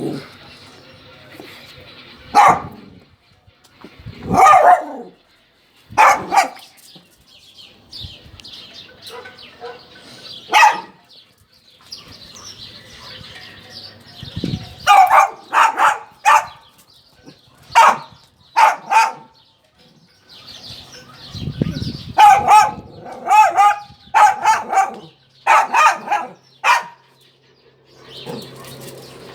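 A dog barking repeatedly, in single barks and quick runs of several, with pauses between.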